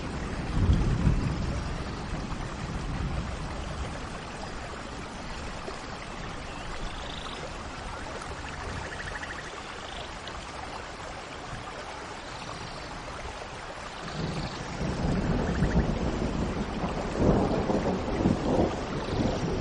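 Steady rain with faint bird chirps over it. About two-thirds of the way in, a low rumble swells up and stays louder to the end.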